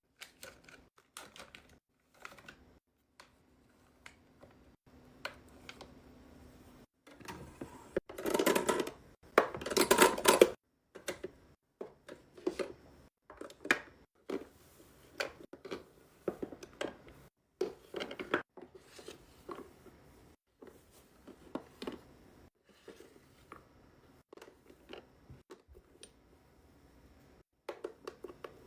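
Small skincare containers being handled and set into a fridge: scattered light taps and clicks throughout, with two louder, longer noisy stretches about eight and ten seconds in.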